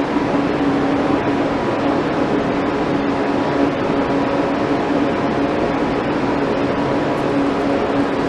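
Steady hiss with a constant low hum, like a ventilation or air-handling unit running, with no distinct knocks or voices standing out.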